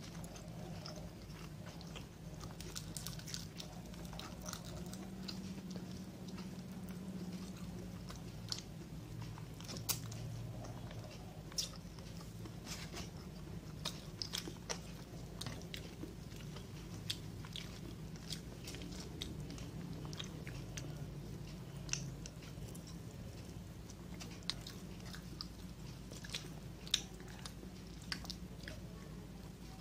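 Close-up eating sounds: chewing and biting into a meal of fried tilapia, fried tofu and eggplant with raw cucumber and bok choy, with many sharp, irregular clicks over a steady low hum.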